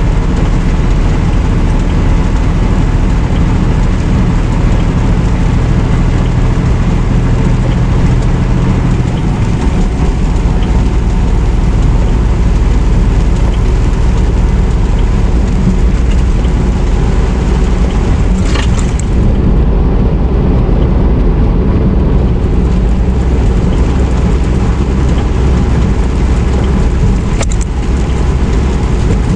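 Semi truck's engine and road noise, a steady low drone; its low pitch shifts about nine seconds in. Two short high sounds cut through it, one a little past the middle and one near the end.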